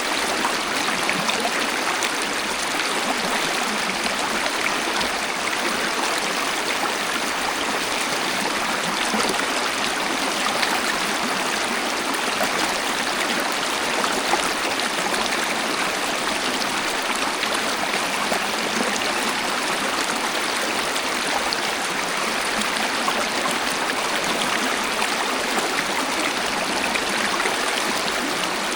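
Waterfall and flowing water rushing steadily, an even hiss with a faint splashing texture.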